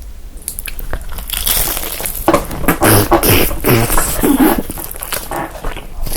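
Close-up crunching and biting of crisp food, with crinkling of its packaging, in a run of quick sharp crackles.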